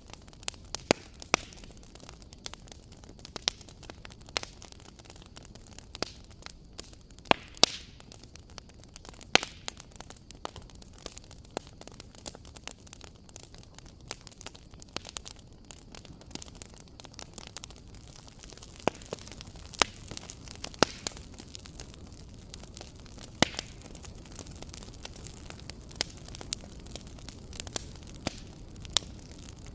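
Fireplace wood fire crackling: irregular sharp pops and snaps over a soft steady rush of burning.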